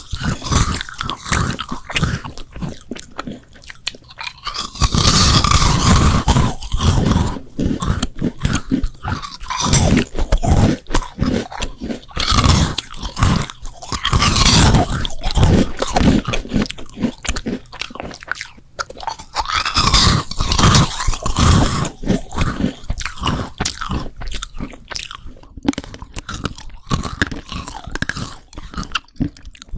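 Close-miked eating: crisp bites and crunchy chewing, with several louder stretches of crunching about five, thirteen and twenty seconds in.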